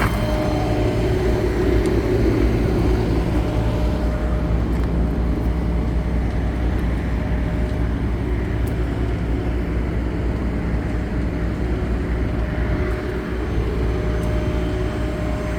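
Steady, unchanging low drone of an idling engine, with a thin steady whine riding above it.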